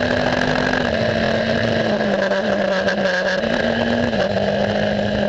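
Race car engine running at a steady, held pitch that steps down and back up a few times.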